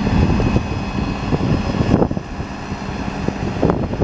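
Ford 6.7 Power Stroke V8 turbo-diesel idling steadily, with irregular rumbling and knocking noise over it.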